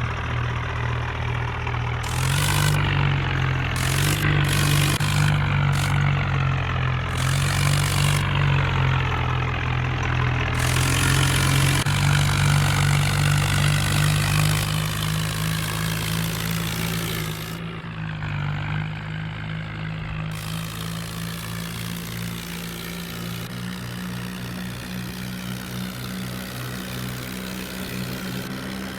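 Tractor engine running with the throttle changing, its note rising and falling; it settles somewhat quieter about two-thirds of the way through.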